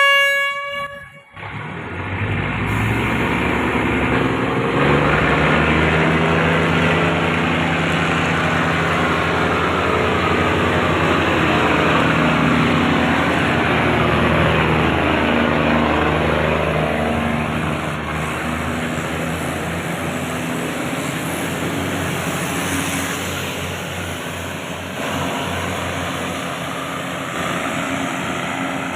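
RHN diesel railcar train: a short blast of its horn ending about a second in, then the train running into the station with a steady loud rumble of diesel engines and wheels on the rails, its sound sweeping as the cars move past, easing slightly in the last third.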